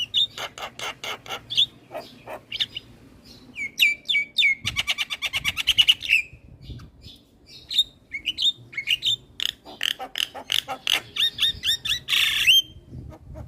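Javan myna song: a run of sharp clicks and short whistles, a fast rattle about five seconds in, and a harsh burst near the end.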